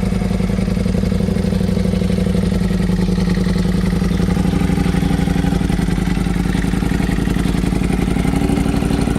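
Ducati Panigale V4 S's V4 engine idling steadily, its pitch holding even.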